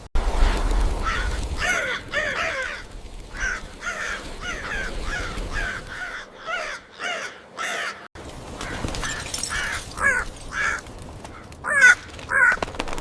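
Birds calling: many short, harsh calls in quick runs, over a low rumble during the first two seconds.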